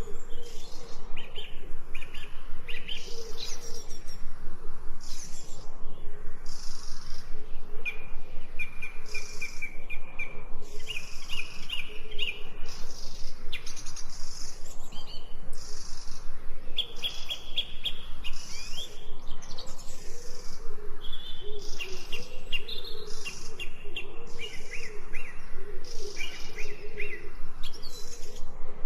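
Several songbirds singing and chirping, with short whistles and rapid trills overlapping throughout, over a lower wavering bird call that runs underneath.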